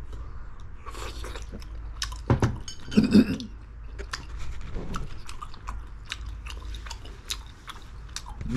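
A person chewing and biting food, with many small wet mouth clicks and smacks, loudest about two to three seconds in.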